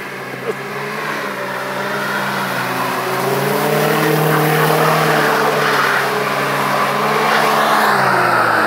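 Mercedes-Benz 190's engine revving hard as the car spins its rear wheels and slides in slush, with a hiss of tyres churning and throwing slush. The revs climb over the first few seconds, stay high, and drop away near the end.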